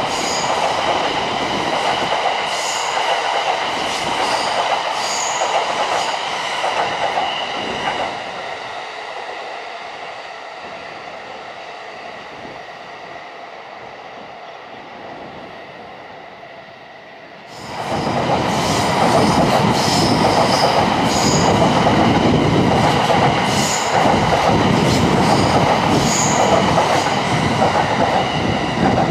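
JR East E657 series limited express trains running past with rail clatter and high wheel squeal. The first passing fades away over several seconds, then about 17 seconds in another train's passing sets in suddenly at full loudness.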